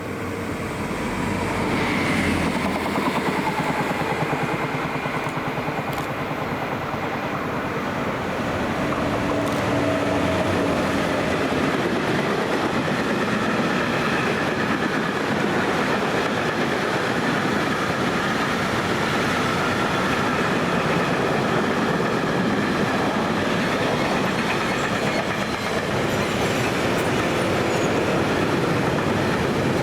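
A train rolling past on the track, a steady rumble of wheels on rails that builds over the first couple of seconds and then holds, with a faint whine above it.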